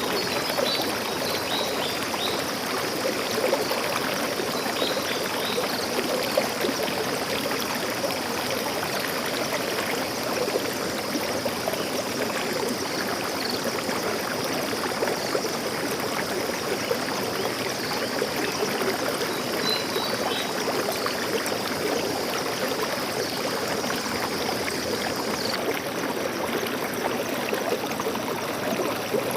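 Stream water flowing and trickling steadily over stones, with a few faint, brief high chirps from birds. A thin, steady high hiss in the background stops abruptly a few seconds before the end.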